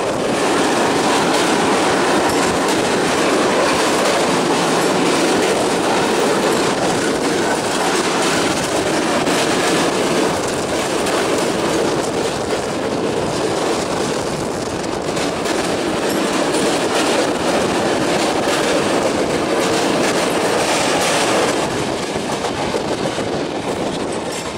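Express passenger train running at speed, heard from an open coach doorway: a steady, loud rumble and rattle of steel wheels on the rails with clickety-clack.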